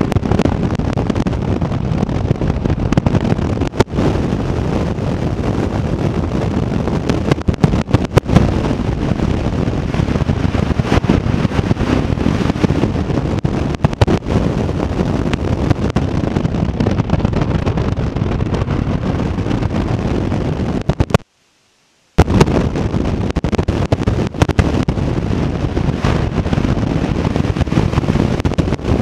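C7 Corvette Z06's supercharged V8 running as the car is driven around the course, heard from inside the cabin, with wind on the microphone and frequent sharp cracks. The sound cuts out completely for about a second near the end.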